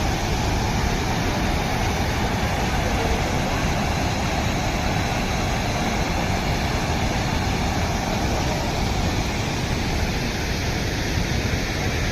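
Waterfall: the steady rushing of falling water, an even, unbroken roar.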